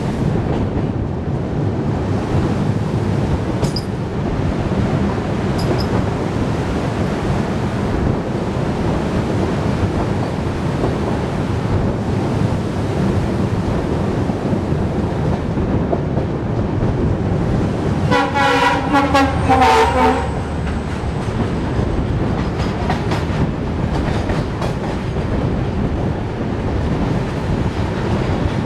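Passenger train running at speed, heard from the open side of a coach: a dense, steady rumble of wheels on rail with wind. About eighteen seconds in, a diesel locomotive horn sounds for about two seconds.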